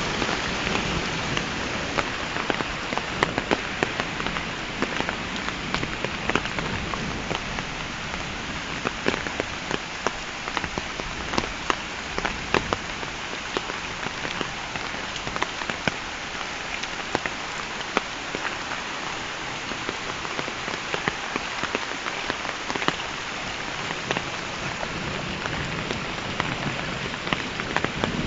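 Heavy thunderstorm rain falling steadily, with many sharp drop hits on hard surfaces.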